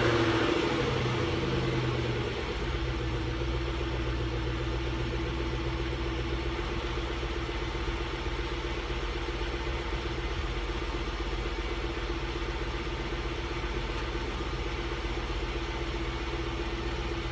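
2005 Lincoln LS V8 engine, supercharged, idling during a cold start: the revs drop away over the first two seconds and then it settles into a steady, even idle.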